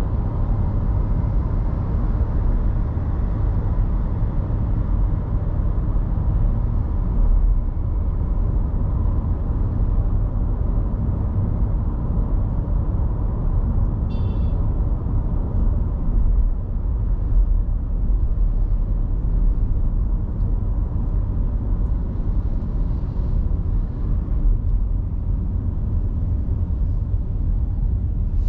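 Steady low rumble of a car driving on city roads: road and engine noise, with a brief high chirp about halfway through.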